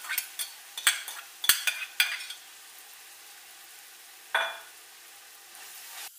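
Shredded cabbage frying in hot oil in an aluminium pot, a steady sizzle, with a run of sharp taps and clicks of a spoon against the bowl and pot in the first two seconds and one brief ringing sound about four seconds in. Stirring with a ladle starts near the end.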